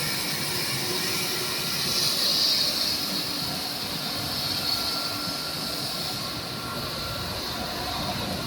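High-pressure spray washing machine for ginger running: a steady hiss of water jets over the machine's running noise, with a faint steady whine.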